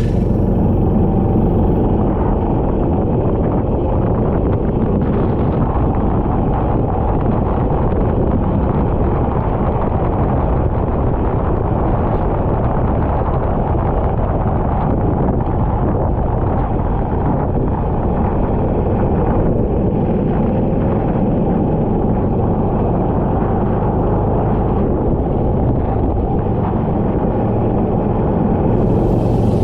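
Go-kart engine running steadily at speed, largely buried under a dense rush of wind and road noise on the microphone.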